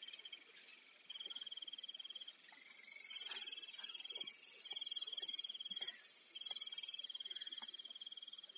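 An insect trilling in repeated runs of a steady, high, finely pulsed tone, with short breaks between the runs. A louder, higher hissing buzz rises about two and a half seconds in and cuts off about seven seconds in.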